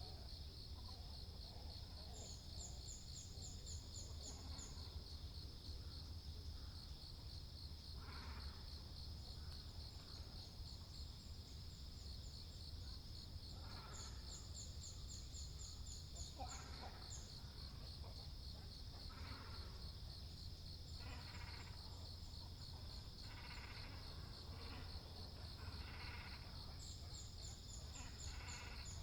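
Harsh, short calls of great cormorants and herons at intervals of a few seconds, coming more often in the second half, over a steady high-pitched insect trill.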